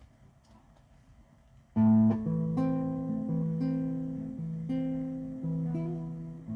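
Acoustic guitar starting a song: after a quiet pause, a chord is struck about two seconds in, then slow chords ring on with a new one about every second.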